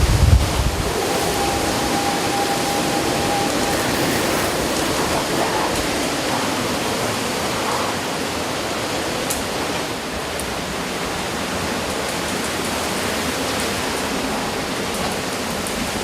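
Steady hiss of Hurricane Florence's heavy rain and wind.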